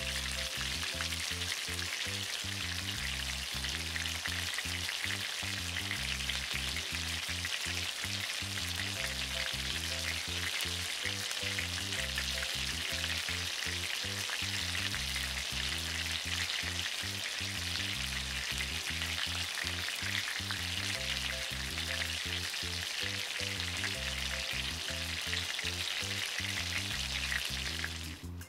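Sausages frying in hot oil in a non-stick pan, a steady sizzle throughout that cuts off just before the end.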